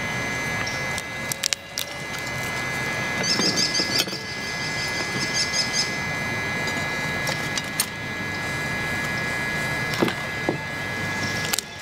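Small wood fire crackling in a Firebox Nano stove, with scattered knocks and clinks of a spatula and cookware against the pan and stove. The sharpest knocks come about ten seconds in and again near the end.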